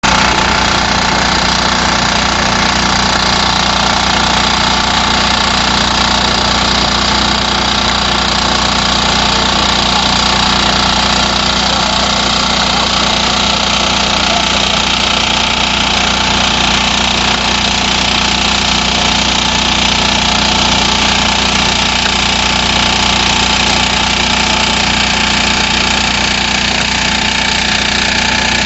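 Engine of a rice-planting machine running steadily at an even speed.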